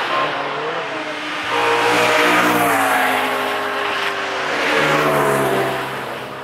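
Cars driving past at speed, engines revving hard with the pitch rising and falling. The sound swells twice and fades away near the end.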